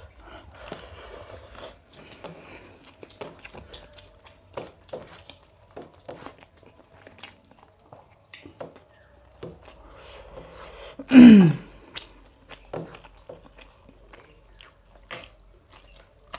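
Two people chewing and biting mouthfuls of biryani eaten by hand, with small mouth clicks and smacks throughout. About two-thirds of the way through comes one short, loud vocal sound that falls in pitch.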